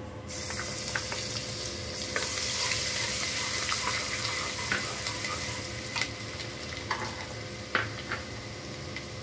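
Chopped garlic and ginger sizzling in hot oil in a kadai. The sizzle starts suddenly a moment in, as they hit the oil. A wooden spatula stirring through them knocks and scrapes against the pan now and then.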